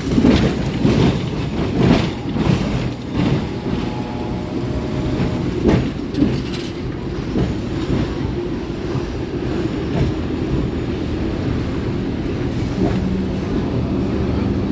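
Hong Kong double-decker tram running along its street track, heard from on board: a steady low rumble with clattering knocks from the wheels and body over the first several seconds, then running more smoothly.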